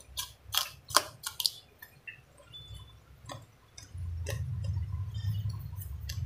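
Wet mouth smacks and chewing clicks of a person eating a handful of fish and rice, close to the microphone: a quick run of sharp smacks in the first second and a half, then fainter ones. A low steady hum starts suddenly about four seconds in.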